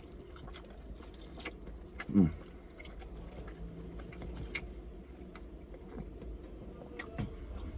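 A person chewing small chops close to the microphone: scattered wet mouth clicks and ticks throughout, with a short hummed 'mmm' about two seconds in.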